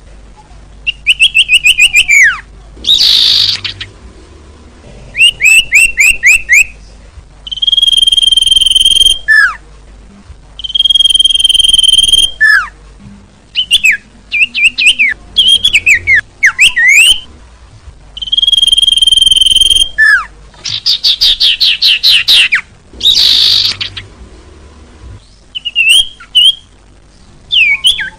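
Bird-lure recording of small songbird calls played loud to draw birds in. It runs in repeated bouts with short gaps, each bout held steady whistles, quick downward-sweeping notes, fast trills or a harsh buzzy chatter.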